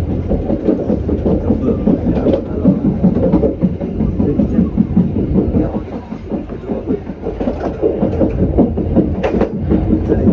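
Passenger train running along the rails, a steady rumble of wheels on track with irregular clacks and knocks from rail joints and the wheels.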